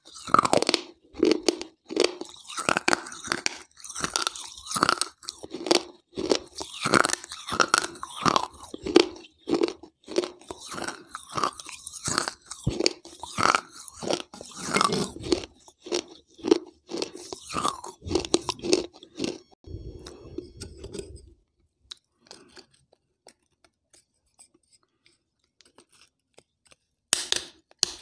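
Close-up chewing and crunching of pieces of a wet baked-clay gullak (terracotta piggy bank), rapid gritty crunches one after another. The chewing dies away about two-thirds of the way through, and a fresh bite crunches in near the end.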